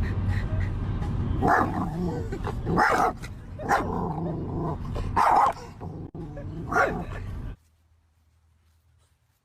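A dog barking, about five loud barks over a steady low rumble, cutting off abruptly near the end.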